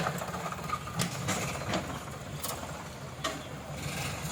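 Tractor engine running steadily, with a few sharp clicks or knocks over it.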